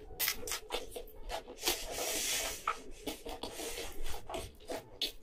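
Close-miked chewing of a mouthful of food: a string of quick wet mouth clicks and smacks, with a brief hissing rush about two seconds in.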